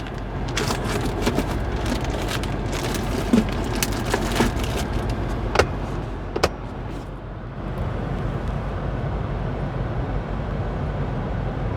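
BMW X5 M Competition's twin-turbo V8 idling steadily, heard as a low hum inside the cabin, with scattered clicks and taps over it, two sharper clicks about five and a half and six and a half seconds in.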